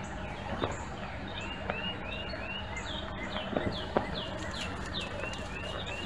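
A songbird calling a quick run of short arched chirps, about three a second, starting about a second and a half in, with a few sharp ticks and a steady low hum underneath.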